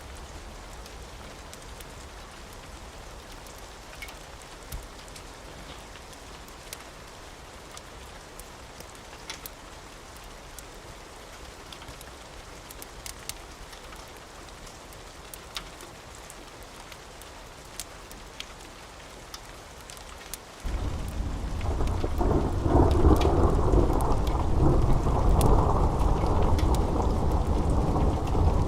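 Steady rain with scattered sharp ticks of drops. About two-thirds of the way through, a loud roll of thunder breaks in suddenly and keeps rumbling to the end.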